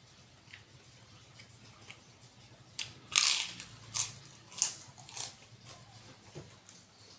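Crunching of a crisp cracker being bitten and chewed close to the mouth: a run of about five loud crunches starting near the middle, the first the loudest, trailing off into softer chewing.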